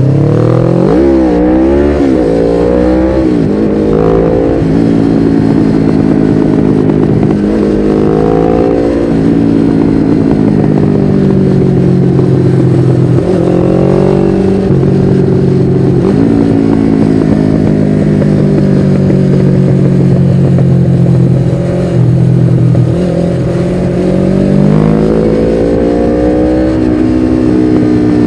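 1993 Suzuki GS500E's air-cooled parallel-twin engine through a Takkoni slip-on exhaust, ridden hard. The revs waver quickly in the first few seconds, then climb and drop sharply at each gear change, with a long steady cruise in the middle and a final rise near the end.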